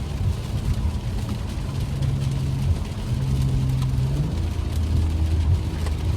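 BMW F10 535i's turbocharged inline-six, with resonator and muffler deleted, heard from inside the cabin, running at low steady revs; its drone drops to a lower pitch a little past four seconds in.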